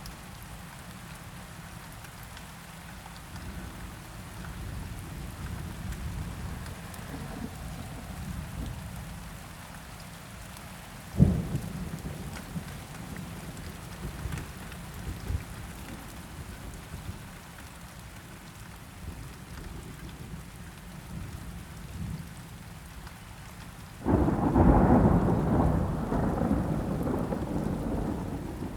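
Steady rain with low rolls of distant thunder. A sharp thunderclap comes about eleven seconds in, and a louder, long rumble of thunder starts near the end and slowly fades.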